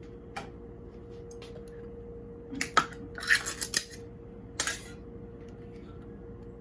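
Dishes and metal utensils clattering in a few quick bursts, about two and a half to five seconds in, the sharpest clink near three seconds. A steady hum runs underneath.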